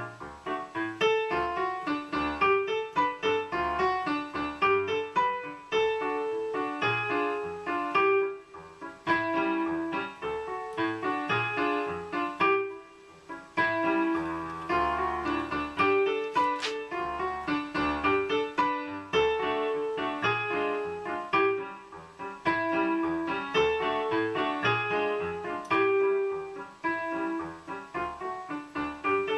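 Piano music: a brisk run of notes over a bass line, pausing briefly a few times.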